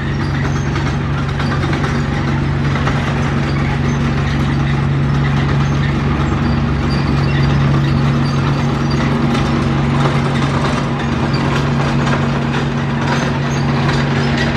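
Heavy construction machine's diesel engine running steadily with a constant low hum and no change in speed.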